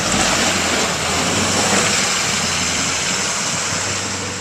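A motor vehicle's engine running close by, a steady low hum under a loud rushing noise that eases off near the end.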